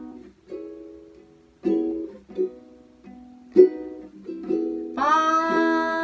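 Ukulele chords, strummed in separate strokes that ring and die away. About five seconds in, a voice joins on one long held note.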